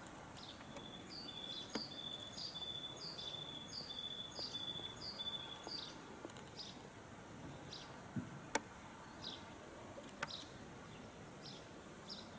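High, thin songbird notes repeat about every half second. For the first half an even series of short notes, about three a second, runs beneath them. Three sharp clicks stand out, the loudest a little past the middle.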